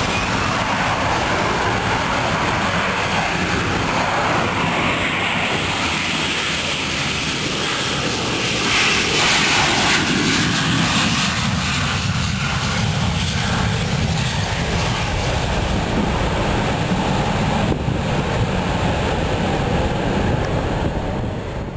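Aircraft engines running loud as an aircraft departs, growing to their loudest about nine seconds in and then easing slightly.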